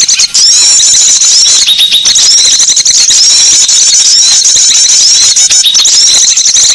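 Small songbirds twittering in a loud, dense, unbroken chorus of rapid high chirps and trills: a lure call used to draw small birds in.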